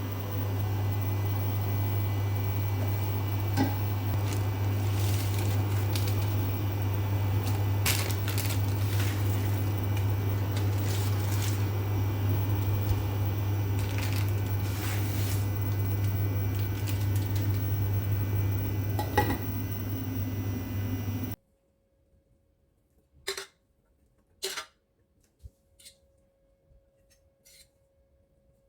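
A kitchen appliance running with a steady low hum, with dishes and utensils clinking over it. About 21 seconds in, the hum cuts off suddenly, leaving a few sharp clicks and knocks.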